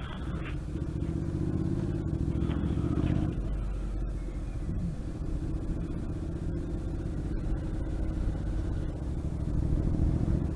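Motorcycle engine running at low road speed, its revs easing off about three seconds in and then holding steady.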